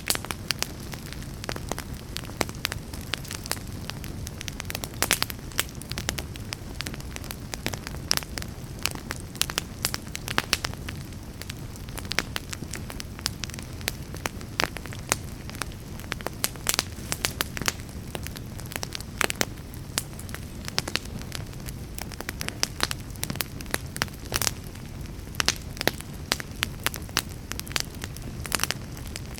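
Burning logs in a fireplace crackling steadily: many sharp pops and snaps, irregular and some louder than others, over a continuous low rumble of the flames.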